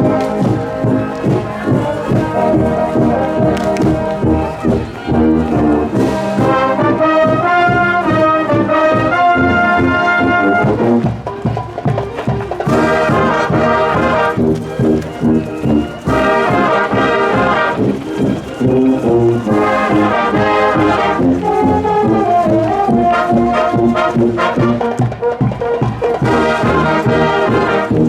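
High school marching band playing: brass carrying a melody over a steady drum beat.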